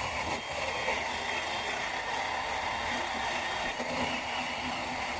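Workpro 12-volt cordless 3-inch sander/polisher running steadily as it works a plastic car headlight lens.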